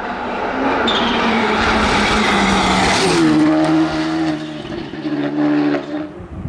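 Rally car driven hard past: the engine is loudest about halfway through, with its pitch falling as it goes by. It is followed by two shorter steady engine notes before the sound drops away sharply near the end.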